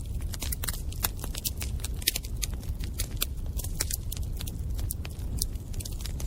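Bonfire burning, with wood crackling and popping in many irregular sharp snaps, a few of them louder, over a steady low rumble.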